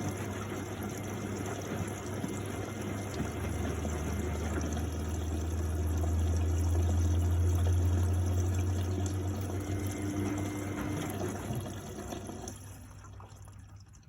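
The drain pump of a 1999 Miele Novotronic W828 washing machine is running, a steady low hum with water rushing through. It swells, then cuts out near the end, leaving only a faint trickle.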